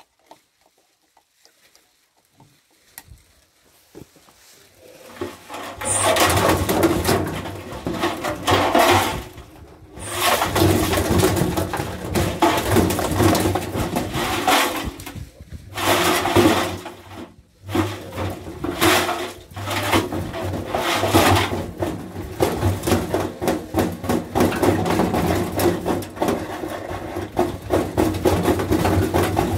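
Washing machine starting up and running, with a steady low motor hum and loud noisy surges of rattling that come and go.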